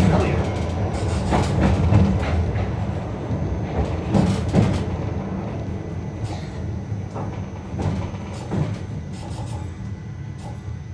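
Yokkaichi Asunaro Railway narrow-gauge train running on its track, wheels clicking over rail joints, the sound fading gradually as it goes.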